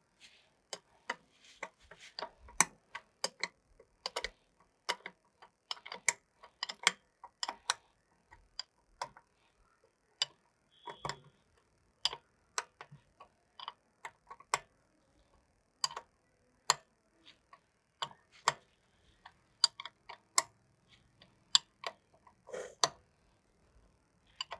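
Irregular sharp clicks and light taps, one or two a second with short gaps, as filter parts and hand tools are handled and the filter elements are tightened.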